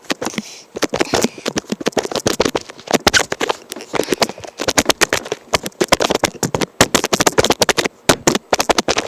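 Dense, irregular crackling and rustling close to the microphone: handling noise from a squishy toy being handled and the recording device being shaken.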